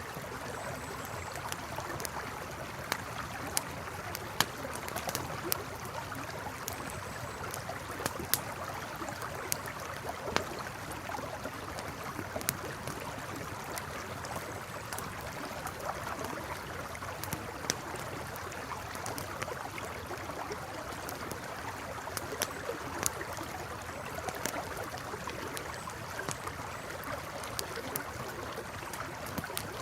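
A river flowing steadily, with a campfire crackling over it in sharp, irregular pops and snaps.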